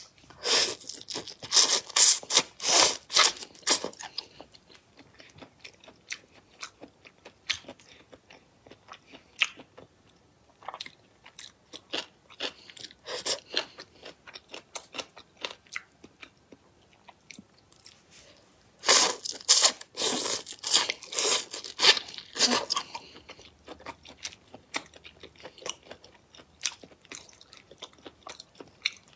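Close-miked eating of raw marinated prawns: biting, crunching and chewing, loudest in two runs of rapid sharp clicks near the start and about two-thirds of the way through, with sparser, quieter clicks between.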